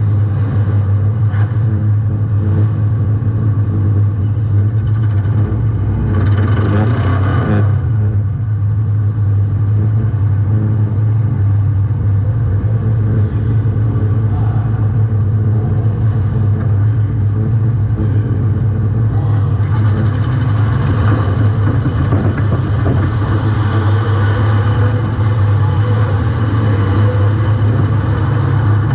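Demolition derby compact car's engine running loud and steady, with a brief louder, brighter surge about six seconds in and a few sharp knocks near the start.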